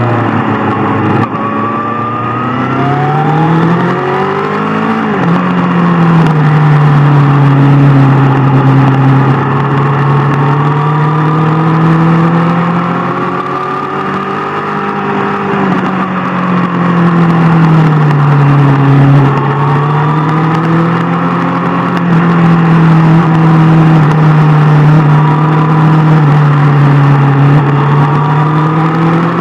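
Superbike engine heard while riding, its pitch rising and falling with the throttle. The revs climb for a few seconds and drop sharply about five seconds in, like a gear change, then swell and ease off in slow waves.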